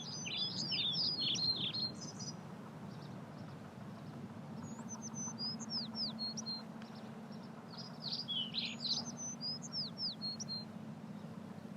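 A songbird singing three short phrases of quick chirps and falling whistles, with pauses between them, over a faint steady low hum.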